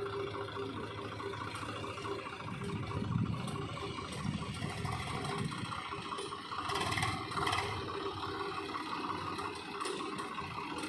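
JCB 3DX backhoe loader's diesel engine running steadily while it works, with a brief clatter about seven seconds in.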